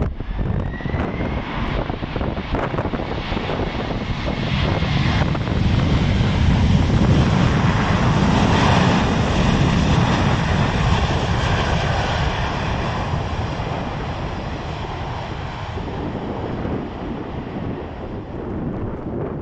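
Jet engines of a landing Boeing 747-400, a dense rushing noise that builds to a peak partway through and then slowly fades.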